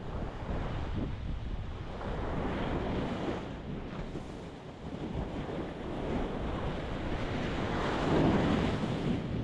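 Ocean waves breaking and washing on a rocky shore, with wind buffeting the microphone. The surf swells and fades, and a bigger wave breaks near the end.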